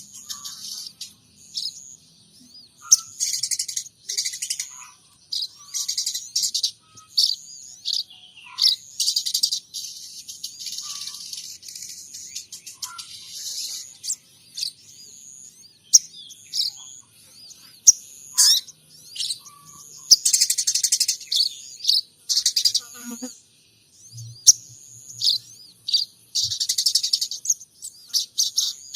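A sogon trotol songbird singing in repeated bursts of high, fast chirps and trills, each a second or two long with short pauses between, in which it brings out munia and sparrow calls that it has copied.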